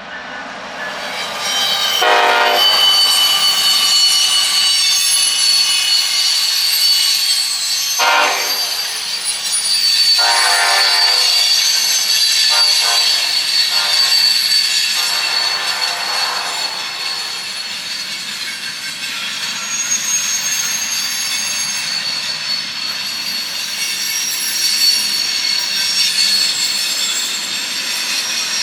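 A train passing close by, growing louder over the first two seconds, with a steady high-pitched wheel squeal throughout. Its horn sounds about four blasts in the first half.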